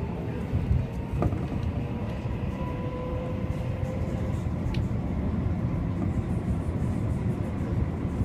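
Keio 8000 series electric train running, heard from inside the car: a steady rumble of wheels on rail. A faint motor whine rises slowly in pitch through the first half, and there is one sharp click about a second in.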